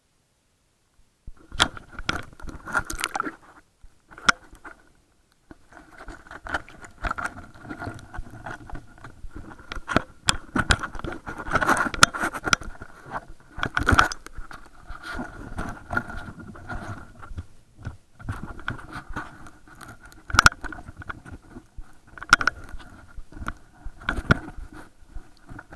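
Irregular sharp clicks and knocks over scraping, rustling noise, starting about a second in.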